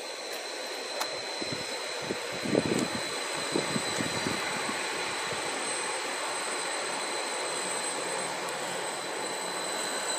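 Greater Anglia Class 755 bi-mode multiple unit running slowly past on the far platform line, a steady drone of engine and wheels with a high whine over it. A few dull low thumps come about two to four seconds in.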